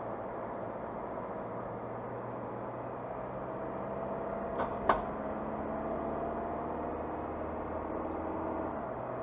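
Car engine and road noise while driving, with a steady hum whose pitch shifts near the end. Two sharp knocks come close together about five seconds in, the second louder.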